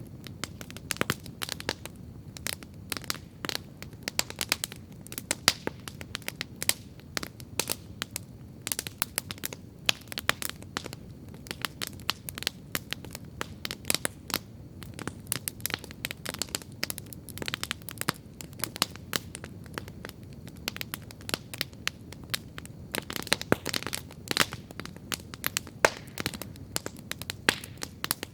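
Wood campfire crackling steadily, with irregular sharp pops and snaps over a low, steady rush of the burning fire.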